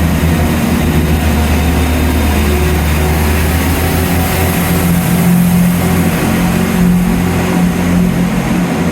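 Railway diesel engine running steadily, a low continuous engine hum with a steady tone above it.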